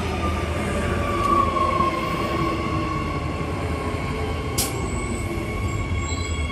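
Electric suburban train running at a platform over a low rumble. Its motor whine falls in pitch over the first couple of seconds and then holds steady, as when a train slows to a stop. A short, sharp high noise comes about four and a half seconds in.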